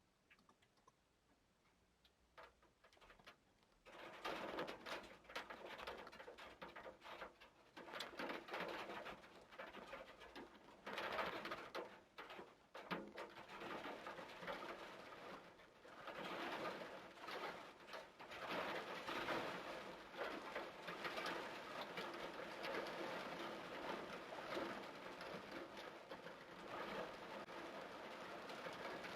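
Heavy torrential rain pouring down. It starts about four seconds in and comes in surging waves, with a bird cooing.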